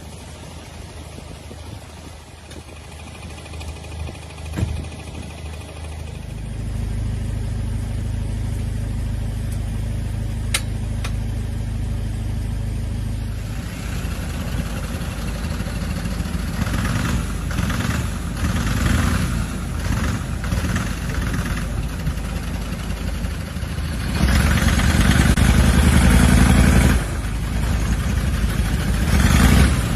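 A vehicle engine running, growing louder about six seconds in, with a rushing noise joining about halfway and everything getting louder again near the end.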